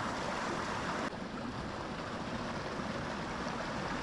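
Small mountain creek flowing steadily, a continuous rush of water, a little quieter from about a second in.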